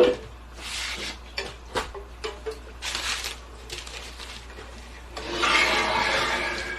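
Kitchen handling noises: a sharp knock, then a few short rubbing and scraping strokes, and a longer, louder scrape lasting over a second near the end.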